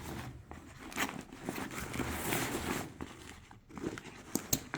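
Cordura nylon bag being handled: the fabric rustles and crinkles, loudest around two seconds in, with a few light taps near the end.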